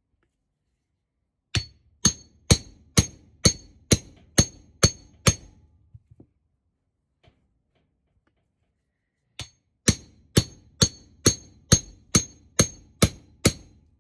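Hammer blows on a Mark 1 Mini's metal suspension trumpet, trying to drive it free of the rubber cone it is seized in. Two runs of about nine sharp, ringing strikes, about two a second, with a pause of a few seconds between them.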